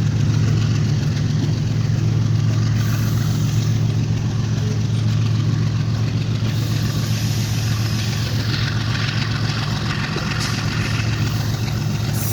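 GE U40 diesel-electric locomotive engine running with a steady low drone as it hauls a train away. More high-pitched rolling noise joins in over the second half.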